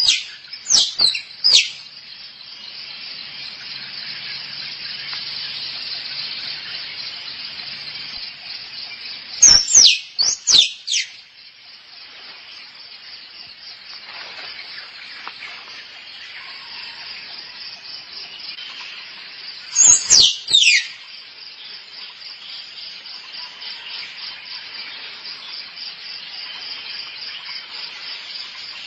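Squirrel mating calls: a cluster of three or four sharp, falling chirps near the start, again about ten seconds in and about twenty seconds in. Under them runs a steady, pulsing high buzz of insects.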